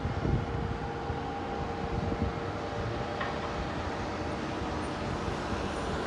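Steady outdoor rumble of distant traffic, with wind buffeting the microphone and a faint steady hum.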